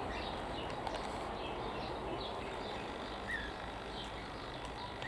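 Scattered short, high chirps and calls from small aviary birds over a steady outdoor background hiss.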